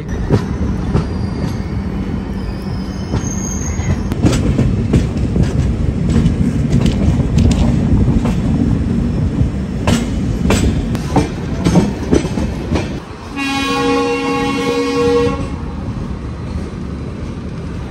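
Running noise of a moving passenger train heard from an open coach doorway: wheel rumble and wind, with rail-joint clicks and clatter through the middle. About thirteen seconds in, a train horn sounds once for about two seconds.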